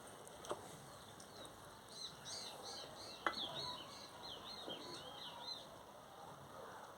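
A bird sings a quick run of high, repeated chirps for a few seconds in the middle. Over it come a few light clicks and knocks, the sharpest about three seconds in.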